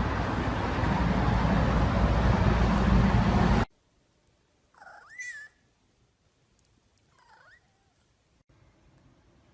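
A loud, even rushing noise cuts off abruptly about a third of the way in. Then a cat meows twice, with bending calls; the second is shorter and fainter.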